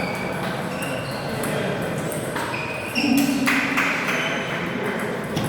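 Table tennis balls striking bats and tables in a hall: short, high ringing pings at an irregular pace, with a louder noisy burst about three seconds in.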